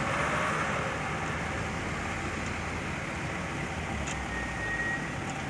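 Truck engine running steadily, with a brief thin high tone about four seconds in.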